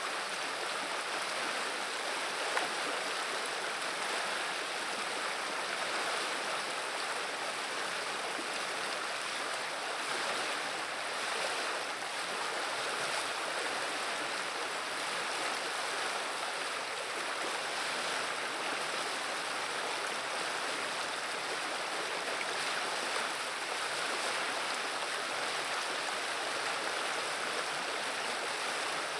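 Viliya river water running steadily, an even, unbroken rushing sound.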